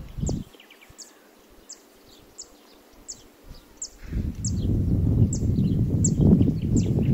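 A bird repeats a short, high, falling chirp about every two-thirds of a second. From about four seconds in, a loud, uneven low rumble of wind on the microphone sets in.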